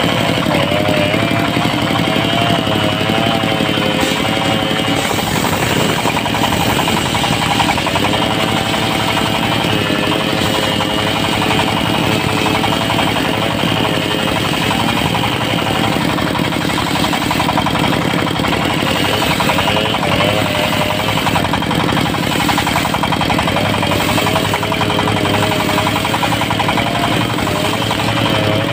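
Diesel-powered mobile circular sawmill running steadily, its blade sawing trembesi (rain tree) wood into thin boards, with a wavering whine over the engine's drone.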